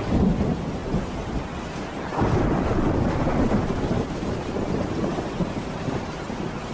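Thunder rumbling in a rainstorm: a rolling peal right at the start, a second swell about two seconds in, then a slow fade.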